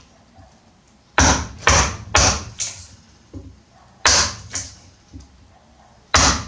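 Sharp knocks of a tool striking wood, in groups: four blows about half a second apart, then two, then two more near the end.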